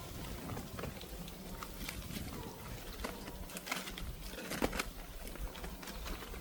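Irregular short clicks, snaps and rustling, a few louder ones past the middle.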